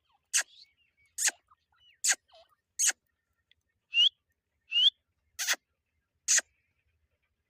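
Teetar (francolin) calling: a run of eight short, sharp, shrill notes about one every 0.8 s, two of them near the middle ending in a quick rising note.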